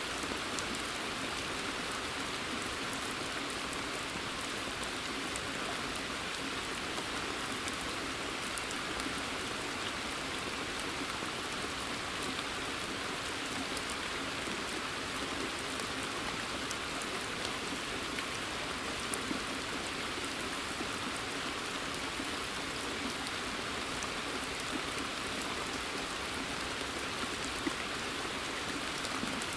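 Steady rain falling in woodland: an even hiss of many drops, with a few sharper single drop ticks, most noticeably about two-thirds of the way in and near the end.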